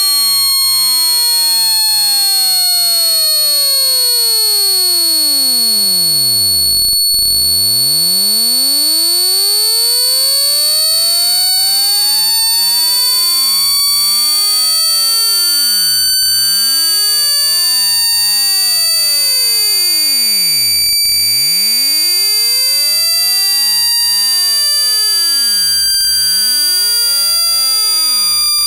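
Electronic speaker-cleaning tone meant to shake water out of a phone speaker grille. A steady high whistle is held while a pure tone glides down to a deep hum about a quarter of the way in. That tone then sweeps slowly back up over the middle and turns downward again for the last third.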